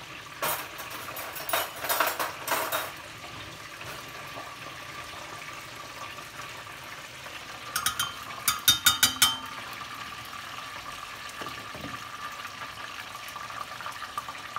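Chicken pockets frying in a pan of oil, a steady sizzle and bubbling. Two short runs of quick clicks and clatter break in: one in the first few seconds and a louder one about eight seconds in.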